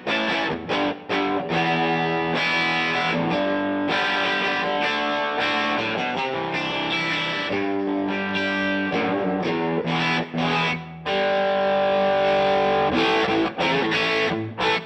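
Electric guitar played through a DVII guitar amp with a distorted tone: riffing broken by short stops, with a chord held for a couple of seconds near the end.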